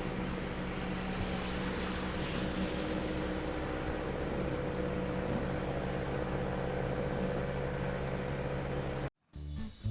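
A motor engine running steadily with an even hum, which cuts off abruptly about nine seconds in. Plucked guitar music starts right after it.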